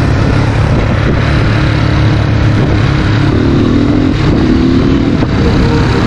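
Dirt bike engine running hard under throttle, its pitch rising about three seconds in as it revs up.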